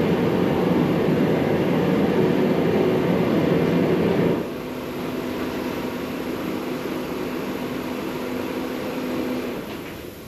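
A loud, steady machine rumble that drops sharply about four seconds in, then runs on more quietly with a steady hum and fades out near the end, as if the machine were shut off and winding down.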